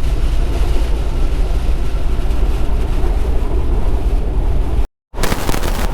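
Steady low rumble of a loaded tractor-trailer's engine and tyres heard from inside the cab at highway speed. The sound cuts out for a moment near the end and then resumes.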